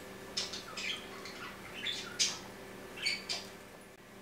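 A bird squawking and chirping in short calls, about six times, over a faint steady hum.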